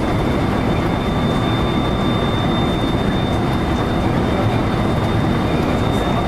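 JR local electric train running along the line, a steady rumble of wheels on rail and running gear heard from inside the car, with a thin steady high tone above it.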